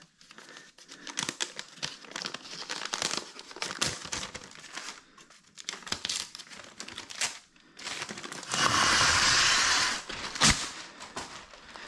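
A sheet of paper being handled and crinkled in short crackling rustles, with one longer, steady ripping sound of about a second and a half about two-thirds of the way through.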